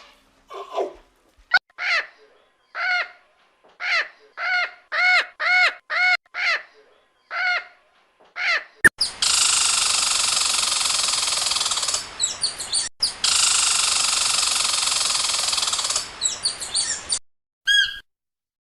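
Bird calls: about a dozen short, separate harsh calls, then a long, dense stretch of continuous calling broken once midway, stopping shortly before one last short call.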